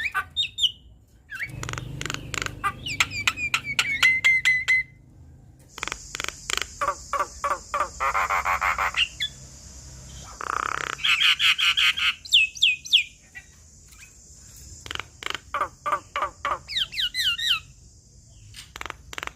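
Javan myna chattering: runs of rapid clicks and harsh notes mixed with short rising and falling whistles, coming in bursts with brief pauses between them. From about six seconds in, a steady high hiss runs underneath.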